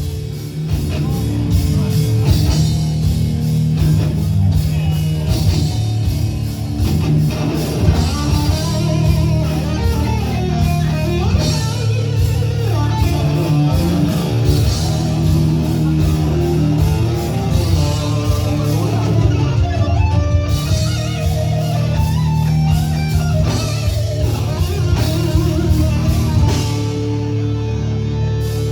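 Heavy metal band playing: electric guitar over a drum kit, loud and continuous.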